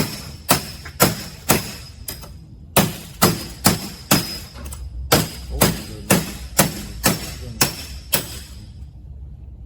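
Hammer blows on metal, about two a second, each with a short ringing tone, driving at a stuck part; a brief pause after the first four blows, then a dozen more.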